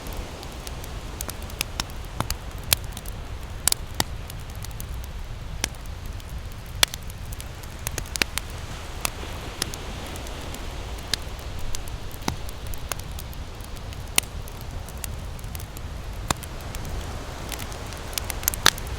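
Campfire wood crackling, with sharp pops at irregular intervals, a few every second or two. Beneath it runs a steady low rush of ocean surf.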